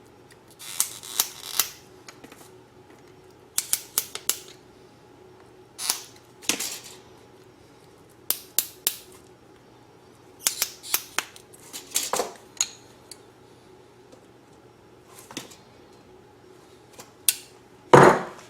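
Bench work fitting rubber fuel hose, a fuel filter and hose clamps together: short bursts of clicks, snaps and scrapes every second or two, with a louder knock near the end.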